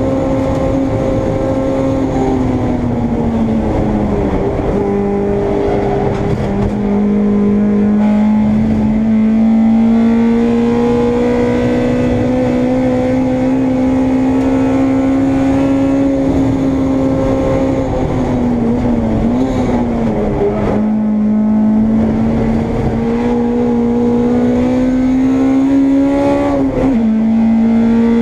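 Honda Integra race car's engine heard from on board, held at high revs and climbing slowly in pitch through long pulls. The note drops sharply a few seconds in, again about two-thirds of the way through, and once more near the end, each time settling lower before climbing again.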